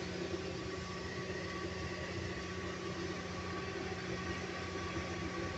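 Steady low machinery hum with a faint steady tone above it, unchanging throughout.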